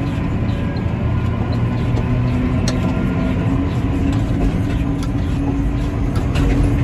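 Tractor engine running at a steady speed while driving along, a constant low drone with a few light rattles.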